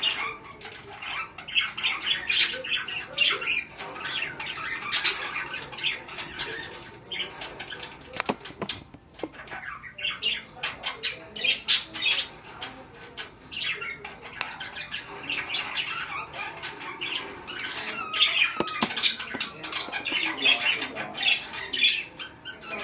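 Budgerigars chattering and squawking: a near-continuous run of short, scratchy calls with a brief lull partway through.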